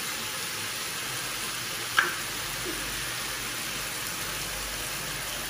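Bean sprouts and carrots sizzling steadily in a hot oiled wok, with one sharp tap about two seconds in.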